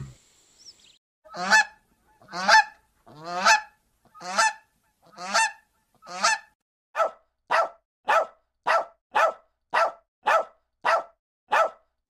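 Swan honking: a series of repeated honks, first about one a second, then from about halfway through shorter and quicker, nearly two a second.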